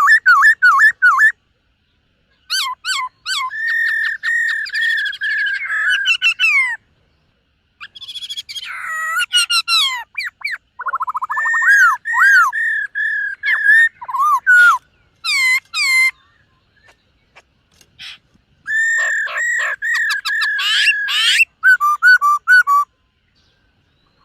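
Black-throated laughingthrush (khướu bạc má) singing: loud phrases of clear, repeated whistled notes, some sliding up or down, broken by short pauses.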